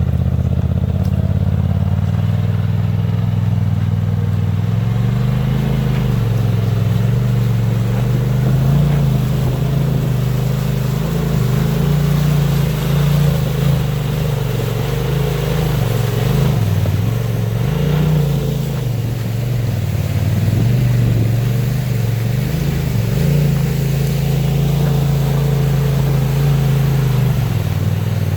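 Side-by-side UTV engine running steadily, its revs rising and falling through the middle as the machine works along the trail.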